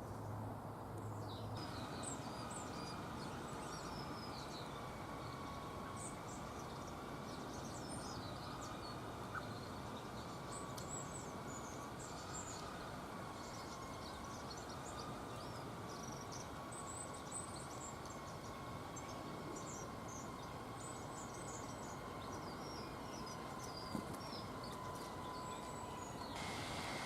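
Small garden birds chirping: many short, high calls in quick irregular succession over a steady background hum.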